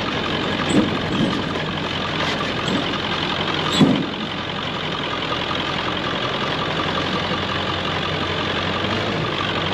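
Ford F-350's diesel engine running steadily as the truck drives a rough dirt trail, with two short thumps about one second and four seconds in.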